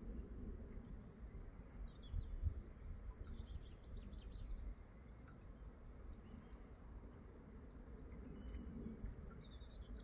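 Small birds chirping and trilling in short high calls, a few in the first seconds and more near the end, over a faint steady low rumble.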